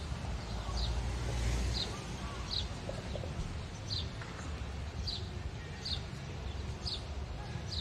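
A bird chirping: one short, high, slightly falling note repeated about once a second, over a steady low city rumble.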